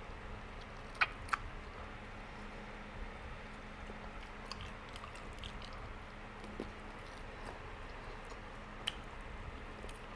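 Close-up eating sounds of barbecued pork ribs being bitten and chewed, the meat gnawed off the bone, with soft wet mouth noises and a few sharp clicks: two close together about a second in and one more near the end.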